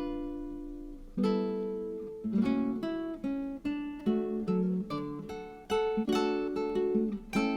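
Background music: acoustic guitar, plucked notes and chords that ring out and fade, a new chord about every second.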